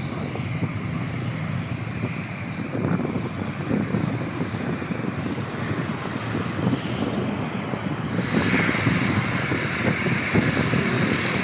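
Airliner engine noise from an aircraft at the airport: a steady roar that grows louder, with a strong high-pitched hiss coming in about eight seconds in.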